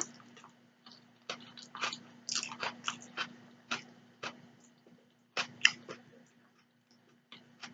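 Close-miked chewing of cheese-topped spaghetti: an irregular string of short, wet mouth clicks and smacks, the loudest a little past halfway.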